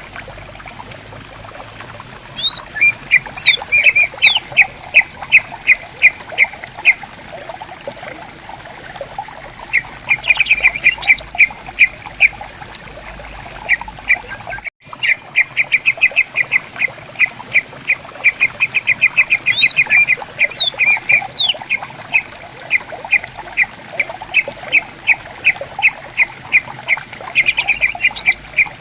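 Greater green leafbirds (cucak ijo) calling back and forth: runs of short, sharp repeated notes, several a second, broken by occasional sweeping whistled notes, over the steady murmur of a gently flowing stream. The sound drops out for an instant about halfway through.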